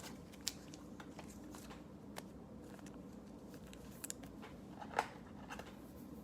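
Trading cards being handled and flipped through, with scattered soft clicks and rustles, the loudest about five seconds in.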